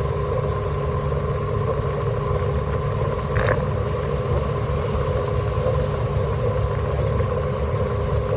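Steady cabin noise of a car driving at motorway speed on a rain-soaked road: low tyre and road rumble with engine hum. A brief noise comes about three and a half seconds in.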